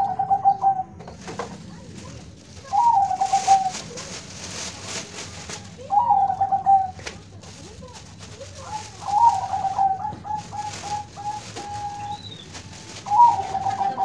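Zebra dove (perkutut) cooing: short phrases of a few notes about every three seconds, with one longer phrase of quick, evenly spaced staccato notes in the middle.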